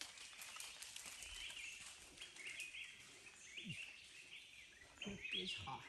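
Faint forest ambience with small birds chirping, short high calls repeated again and again.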